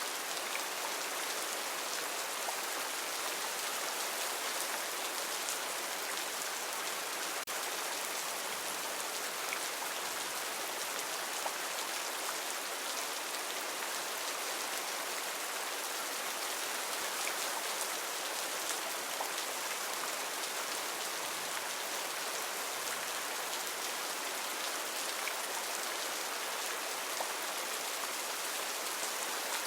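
Heavy tropical rain falling steadily: an even hiss of countless drops, with scattered single drop taps standing out now and then.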